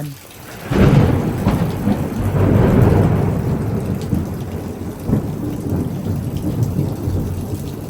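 A close thunderclap breaks about a second in and rolls on as a long, loud rumble, over steady heavy rain.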